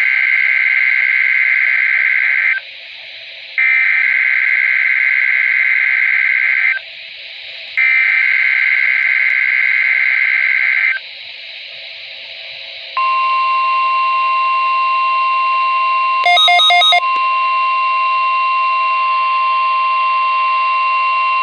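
NOAA Weather Radio alarm test: three raspy, warbling SAME digital header bursts, each about three seconds long with short pauses between, followed by the long steady 1050 Hz warning alarm tone, which a brief stuttering blip interrupts partway through. These tones activate specially built weather alert receivers.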